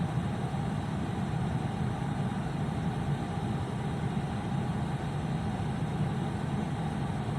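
Long CN freight train rolling steadily past, a continuous low rumble of wheels on rail without a horn.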